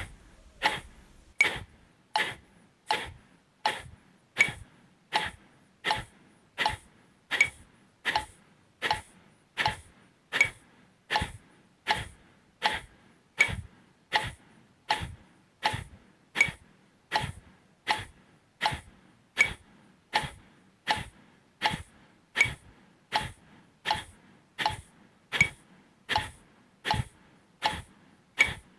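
Kapalabhati breathing: short, forceful exhalations pushed out through the nose, one every three quarters of a second (80 a minute) in an even rhythm.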